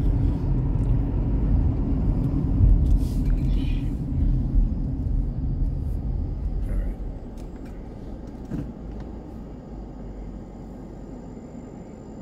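Car driving, a low road and engine rumble that drops to a quieter level about seven seconds in, with a few light clicks.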